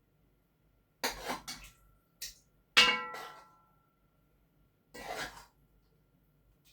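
Kitchenware clattering while food is dished up: a few knocks about a second in, then one loud metallic clang that rings briefly, and a short scraping burst about five seconds in.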